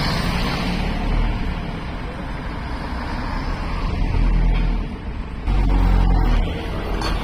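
Pressurised natural gas escaping from a ruptured gas pipe: a loud, steady rushing hiss, with heavier low rumbling surges about four seconds in and again near six seconds.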